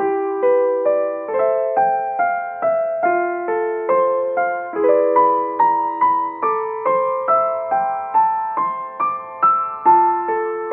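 Background piano music: a slow, gentle melody of single sustained notes, each struck and fading.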